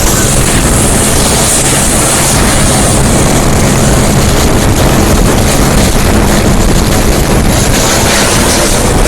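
Helicopter flying low overhead: a loud, steady rotor and engine noise with no break.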